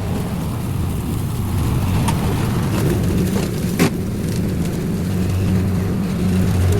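Small gasoline engine of lawn-care equipment running steadily, with a few sharp ticks, the loudest about four seconds in.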